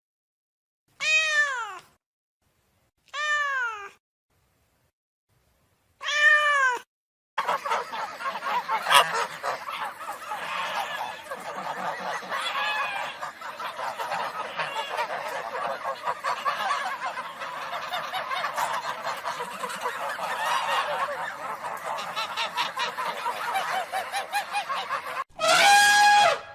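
A cat meows three times, each a short falling call with dead silence between. Then comes a long, dense chorus of many animals calling over one another, and a single call near the end.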